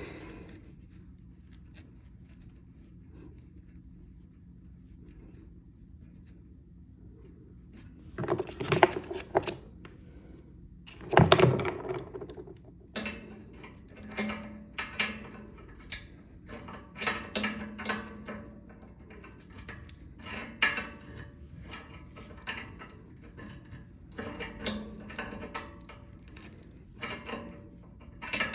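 Hand-tool work on metal pipe fittings: two louder scraping, clattering bursts about eight and eleven seconds in, then a long run of short, irregular metal clicks and knocks.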